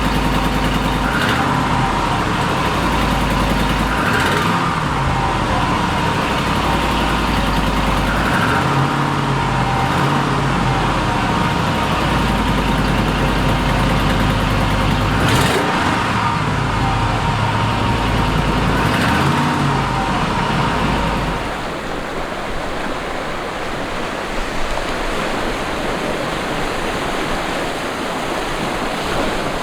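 Motor vehicle and traffic noise with a heavy low rumble, giving way about 21 seconds in to a steady rushing noise like surf.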